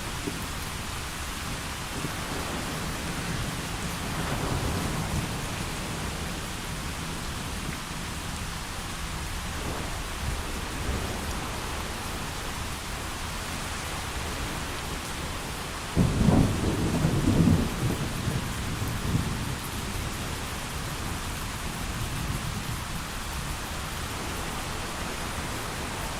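Steady heavy rain, with a sudden loud clap of thunder about two-thirds of the way through that rumbles on for a few seconds, and a softer roll of thunder early on.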